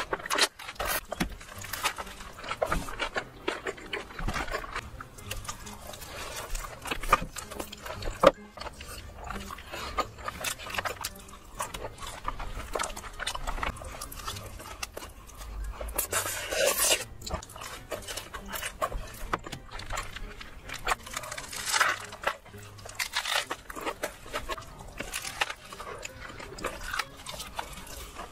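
Close-miked mukbang eating: wet chewing, lip smacking and mouth clicks while biting into and eating a big sauced burger and forkfuls of sauce-covered fries, in a steady run of irregular clicks with a few louder bites.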